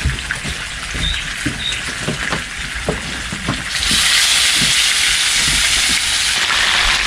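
A batch of food frying in hot oil with a steady sizzle and scattered small pops. The sizzle grows louder about four seconds in.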